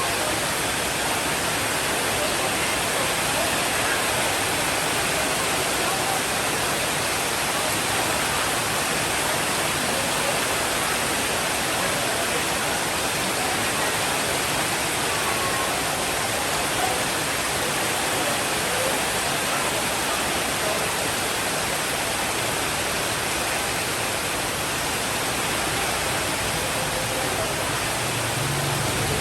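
Steady rainfall, a dense even hiss with no drops or thunder standing out.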